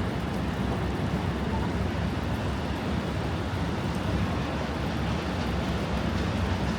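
Steady roar of strong wind buffeting the microphone, mixed with the hum of city street traffic.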